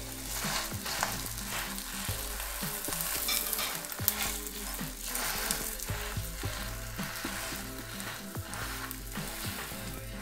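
Egg omelette frying in oil in a pan under a flatbread: a steady sizzle with scattered small crackles.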